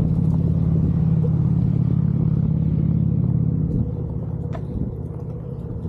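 A Onewheel GT's hub motor and tyre rolling along a trail: a steady low drone with a rumble, loudest for the first four seconds or so, then easing off.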